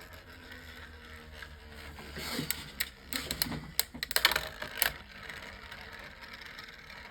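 Sharp plastic clicks and taps from Beyblade Micros spinning tops and their stadium being handled, in a cluster from about two to five seconds in.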